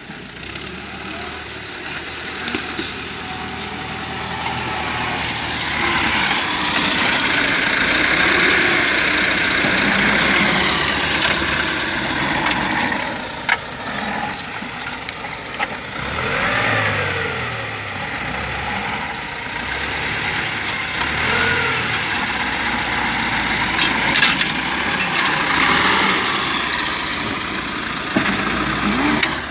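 T-40 tractor's diesel engine running under changing load, its note rising and falling, with a few sharp knocks and clanks.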